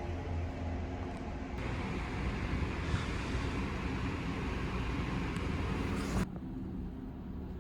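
Steady low hum and rumble of a large car ferry underway, with a rushing hiss over it. The sound changes abruptly about a second and a half in, and again near the end, where the hiss drops away and leaves mostly the low hum.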